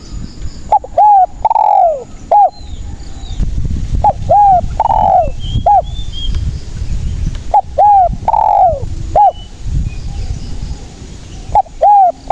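Spotted dove (tekukur) calling: a phrase of short coos around one longer, falling coo, repeated about every four seconds, three times, with a fourth phrase starting near the end.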